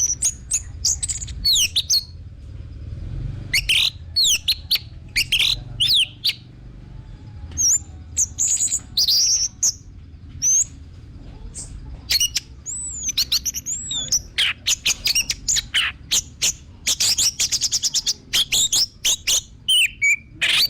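Orange-headed thrush (anis merah) singing a varied song of quick swooping whistles and chirps, with a fast run of repeated notes near the end.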